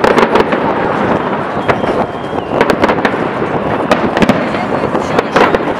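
Aerial fireworks shells bursting in the sky, a rapid irregular series of sharp bangs and crackles, at times several a second, over a continuous noisy background.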